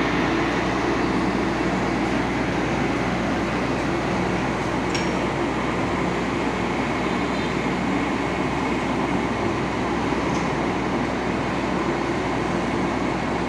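Large fire truck's engine running steadily, an even mechanical hum.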